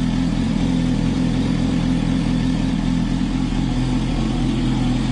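Yamaha R6 600cc inline-four idling steadily through an Akrapovic exhaust after a cold start.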